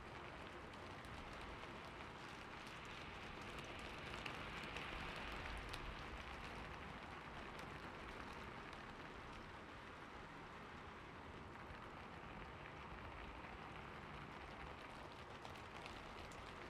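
Steady rain falling on a surface, a soft even hiss with scattered drop ticks, swelling slightly a few seconds in.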